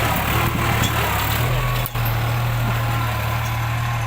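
New Holland 3600-2 tractor's diesel engine running steadily with a constant low hum.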